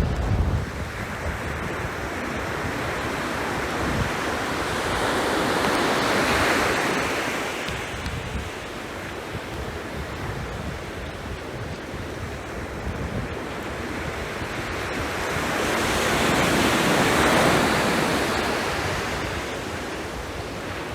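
Sea waves washing onto the shore, two swells building and falling away, the first peaking about six seconds in and the second near seventeen seconds, over a steady hiss of surf, with some wind rumble on the microphone.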